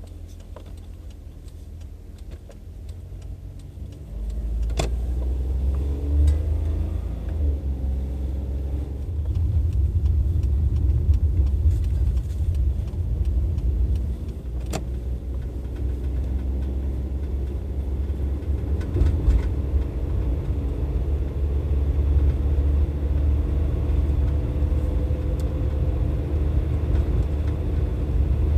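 Non-turbo Suzuki Wagon R's three-cylinder kei engine running with a low rumble, getting louder about four seconds in and again a few seconds later, easing off briefly, then slowly building. A couple of sharp clicks are heard along the way.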